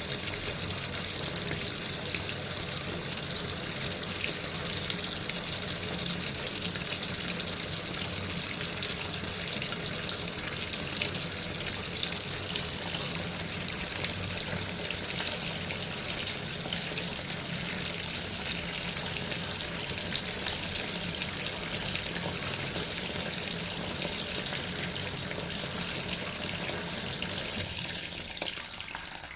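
Water running steadily into or through a Sharp washing machine, a continuous rush with a faint low hum underneath.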